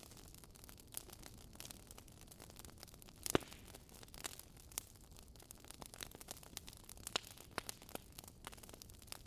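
Wood fire crackling in a fireplace: a soft hiss under irregular sharp pops and snaps, the loudest a little over three seconds in.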